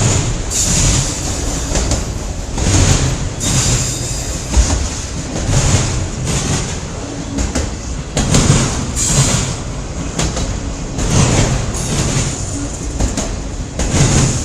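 CN freight train's cars rolling past at close range, the wheels clattering over rail joints in repeated surges every second or two.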